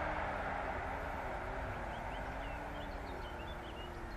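Passenger train of sleeping cars rolling away into the distance, its rumble on the rails steadily fading. Small birds chirp faintly from about halfway through.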